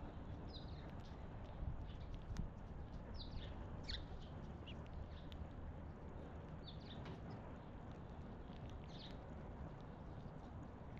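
Small wild birds chirping, with short downward-sliding calls at irregular moments, and a few sharp taps in the first few seconds over a steady low background rumble.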